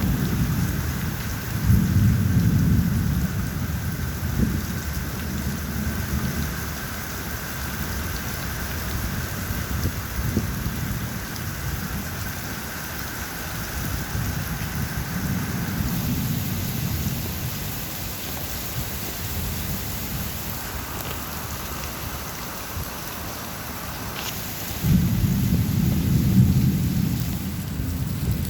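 Steady rain falling, with low rolling thunder rumbling three times: about two seconds in, around the middle, and again near the end.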